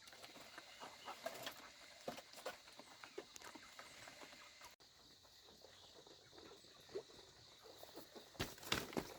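Chickens clucking faintly in short scattered calls, with two sharp knocks near the end.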